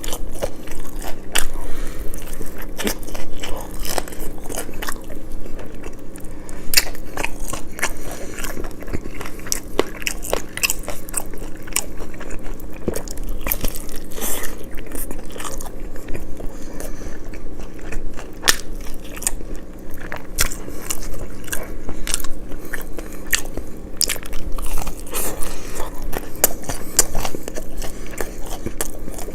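Close-miked eating: a person biting and chewing crunchy food, with many sharp, irregular crunches.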